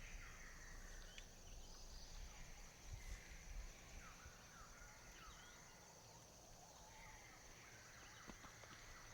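Quiet natural ambience: a faint steady insect hum high in pitch, with a scattered series of short, quick bird chirps falling in pitch around the middle.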